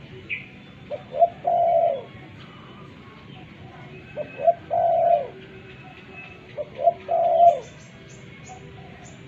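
Spotted dove cooing: three phrases about three seconds apart, each made of two short notes and then a longer drawn-out coo that drops in pitch at its end.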